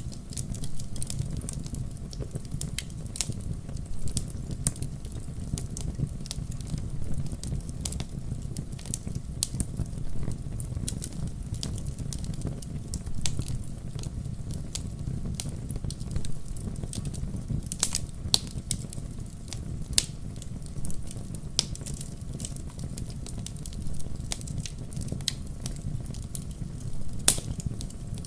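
Fire in a fireplace crackling: sharp pops and snaps scattered irregularly over a steady low rumble.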